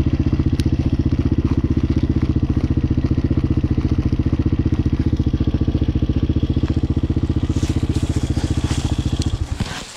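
Hawk 250 dirt bike's single-cylinder four-stroke engine idling steadily with an even pulse, stopping abruptly near the end.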